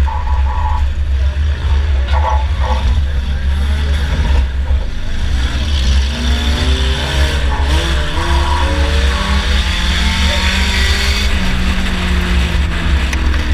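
2004 Chevy Impala's engine running hard under way over a steady low rumble, its pitch rising and falling as the driver revs and lets off, most plainly in the second half.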